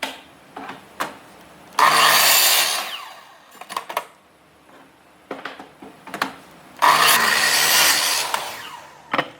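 Two loud bursts of a workshop power tool working wood, each about a second long, starting suddenly and tapering off, with clicks and knocks of handling between them.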